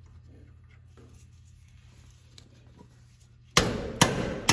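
Low steady hum with small faint clicks, then near the end three sharp metal knocks about half a second apart, each trailing off in a rattle.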